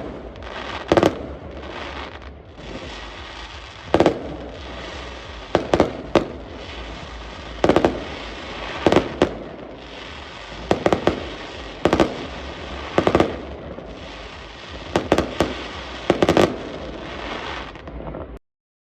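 Fireworks going off: sharp bangs about every one to two seconds, some in quick pairs or triplets, over a steady noisy hiss. The sound cuts off suddenly just before the end.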